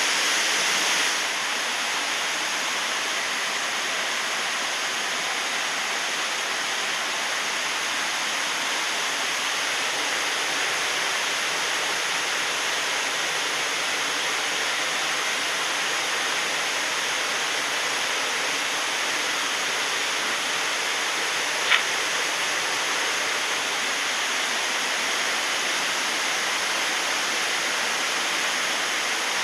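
Waterfall pouring steadily, a constant rushing of falling water. One short click stands out about three-quarters of the way through.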